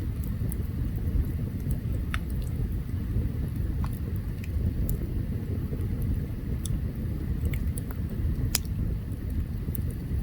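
Open campfire burning: a steady low rumble with scattered sharp crackles and pops, the loudest pop near the end.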